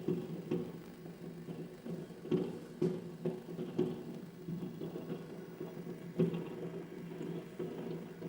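Distant fireworks going off: a string of dull, irregular bangs over a steady low background hum.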